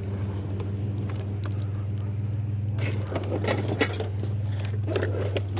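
Truck engine idling steadily, with scattered knocks and rattles of scrap being pulled and handled starting about halfway through.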